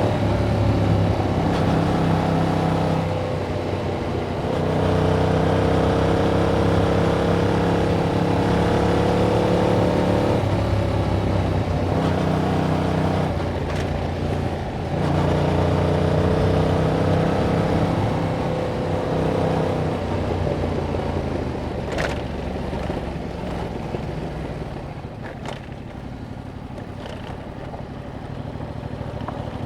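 Yamaha MT-07's parallel-twin engine through its stock exhaust, running under steady throttle with a few short dips in level. About two-thirds of the way through it drops to a quieter run off the throttle, then picks up again near the end.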